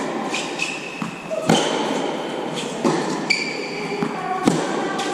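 Tennis rally on an indoor court: three sharp racket-on-ball hits about one and a half seconds apart, with short high-pitched shoe squeaks on the court surface between shots.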